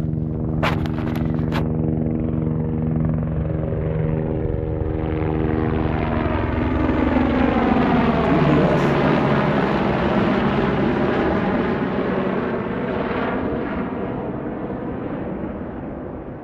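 Helicopter flying past: a steady rotor and engine drone that grows louder, drops in pitch as it passes about eight seconds in, then fades away.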